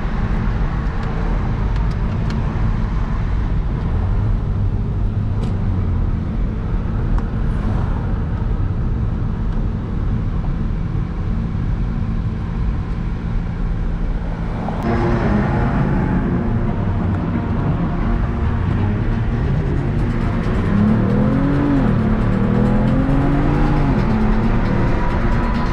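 Hyundai Genesis Coupe 3.8 V6 on the move, heard from inside the cabin as a steady engine rumble and road noise. About fifteen seconds in the noise grows louder, and near the end rising-and-falling tones come in over it.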